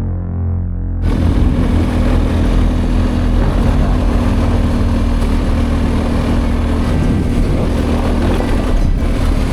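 Adventure motorcycle engine running while under way, with a steady rushing noise over it; it comes in loudly about a second in.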